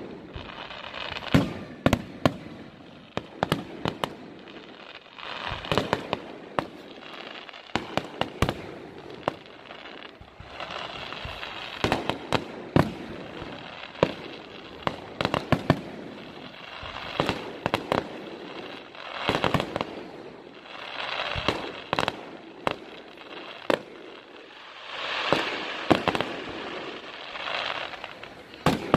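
Aerial fireworks bursting one after another: sharp bangs in quick clusters every second or two, with crackling between them.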